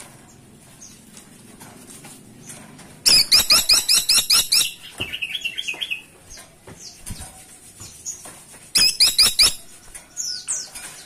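Caladi tikotok woodpecker calling: two loud bursts of rapid, sharp notes at about six a second, each note falling in pitch. The first burst runs on into a softer, lower trill.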